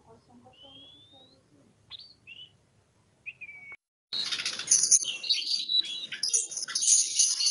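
Oriental magpie-robin (kacer) singing: a few separate clear whistles, one rising steadily, then from about four seconds in a sudden run of loud, dense, rapidly changing song.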